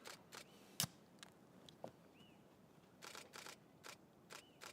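Faint clicks and rustling of a camera being handled, such as a lens being swapped. A few short chirps, like a small bird's, sound between them.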